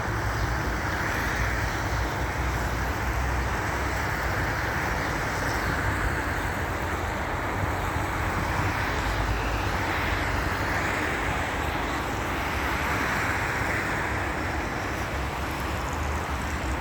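Wind buffeting the microphone over a steady rushing noise, with no distinct events.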